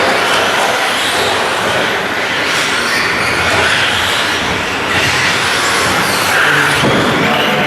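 A pack of 1/10-scale RC racing trucks running laps on a carpet track, their motors and drivetrains whining as they speed up and slow down.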